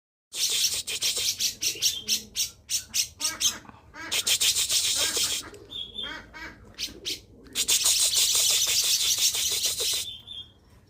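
Songbird singing a fast, varied song of quick harsh chattering notes broken by brief clear whistles, with two long stretches of dense scratchy chatter.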